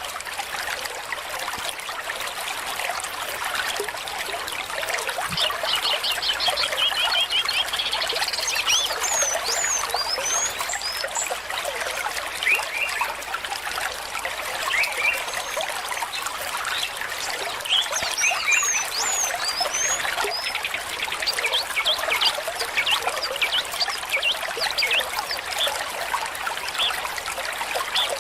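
Small stream trickling and splashing steadily over stones, with birds chirping now and then, in short bursts of quick high notes.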